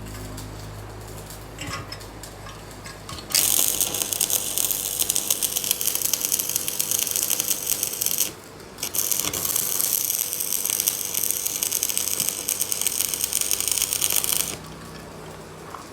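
A rapid mechanical clicking rattle, like a ratchet or gear mechanism, starting about three seconds in, pausing briefly midway and stopping shortly before the end.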